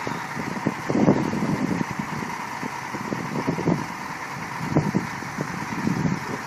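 A vehicle engine running steadily, with irregular low knocks and bumps over it.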